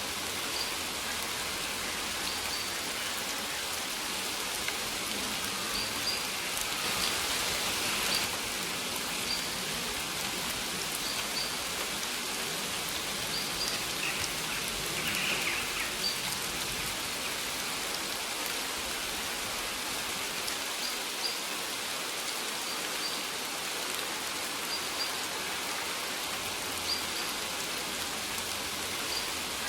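Steady rain falling, an even hiss of many drops. Short high bird chirps come every second or two.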